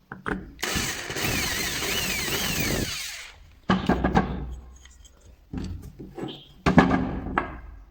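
Electric hand drill running for about two and a half seconds, its whine dipping and rising in pitch as it bores through the metal brush holder cup of a starter motor. Then come several bursts of clattering knocks as metal parts and tools are handled.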